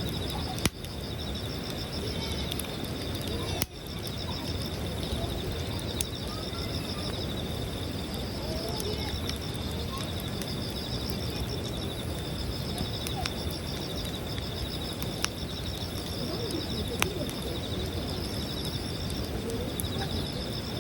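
Campfire crackling, with scattered sharp pops, over a steady high pulsing trill of insects and occasional bird chirps.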